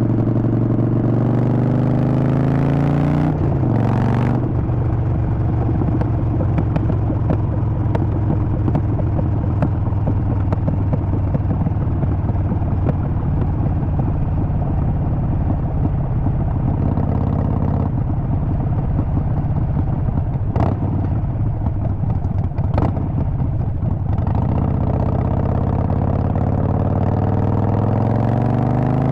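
Harley-Davidson Sportster Forty-Eight's air-cooled V-twin engine while riding. Its note falls over the first few seconds, then it runs steadily under load with a couple of sharp clicks around the middle, and near the end it climbs in pitch as the bike accelerates.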